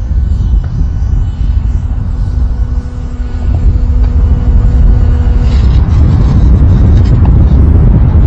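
Heavy wind rumble on the microphone over the faint steady hum of an RC F-22 jet's twin 70 mm electric ducted fans. The fan tone fades out about five and a half seconds in.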